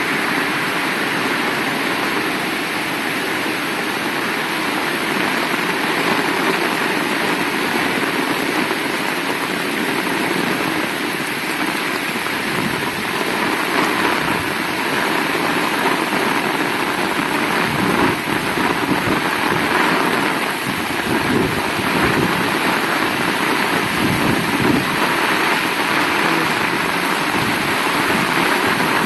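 Heavy rain falling steadily in a constant hiss, with a low rumble through the second half.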